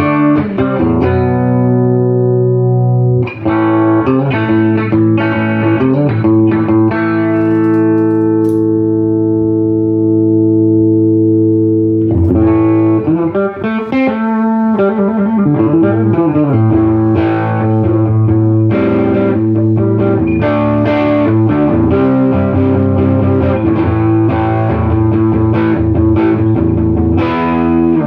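Electric guitar played through a 1968 Fender Super Reverb tube amp: chords struck and left to ring, one held chord fading over several seconds, then a bent note followed by steady rhythmic strumming.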